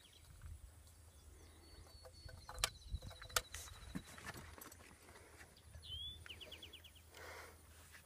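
A small bird calling: a thin high note held for a couple of seconds, then a short rising chirp and a quick trill about six seconds in. Two sharp clicks, a little under three and at about three and a half seconds in, from handling the opened break-action shotgun while reloading.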